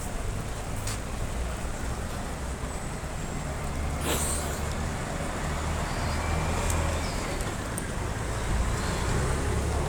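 Road traffic with vehicles running at low engine speed, a steady low rumble that swells and fades, with a short hiss about four seconds in.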